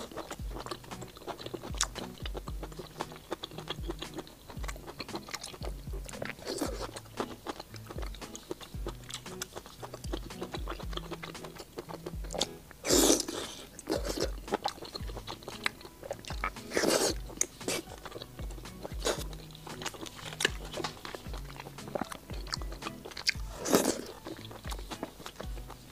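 Close-miked chewing and biting of spicy stir-fried seafood, with wet, crunchy mouth sounds and three louder bites about 13, 17 and 24 seconds in. Background music with a steady beat runs underneath.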